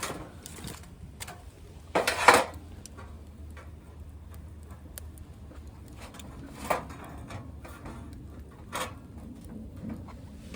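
Metal items clinking and knocking as they are handled: a loud clatter about two seconds in, then a few lighter single clinks spread apart.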